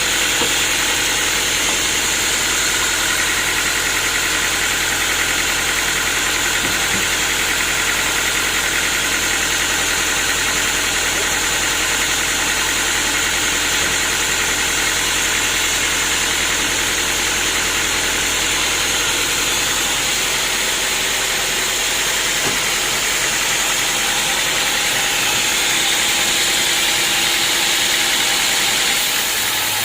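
Sawmill machinery running steadily: a continuous loud mechanical noise with a steady high whine. The low hum underneath drops away about two-thirds of the way through.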